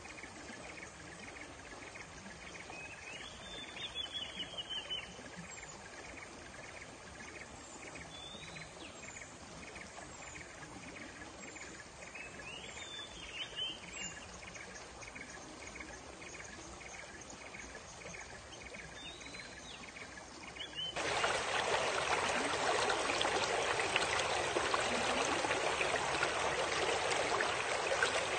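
Forest ambience of insects chirping in a steady rhythm, with a few short bird calls over a soft water hiss. About three quarters of the way through it gives way abruptly to the loud, even rush of flowing water from a waterfall or river.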